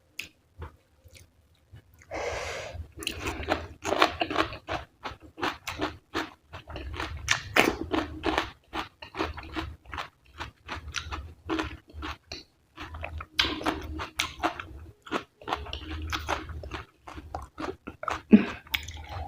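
Close-miked chewing of a mouthful of food, with rapid, irregular wet smacking and crunching clicks. It starts after a short quiet spell at the beginning.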